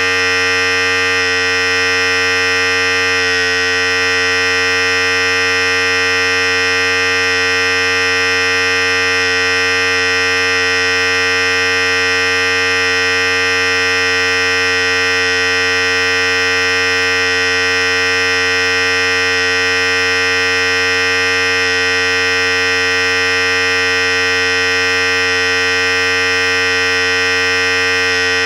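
Philips Series 5000 hair clipper running steadily, a constant, unchanging electric buzz.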